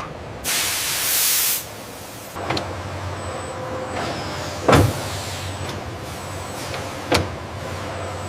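Automated factory machinery: a loud hiss of compressed air lasting about a second, then a steady low machine hum broken by sharp clicks and one heavy clunk about halfway through.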